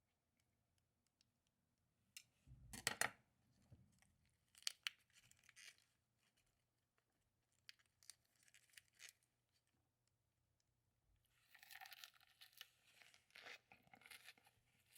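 Faint, intermittent tearing and crunching of food being handled and eaten, in short scattered bursts. The loudest burst comes about three seconds in, and a longer stretch of crunching and rustling comes near the end.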